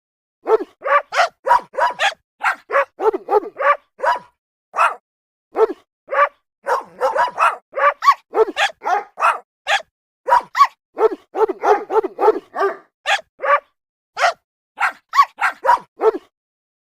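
Dog barking over and over in quick, irregular runs of short barks, at times several a second.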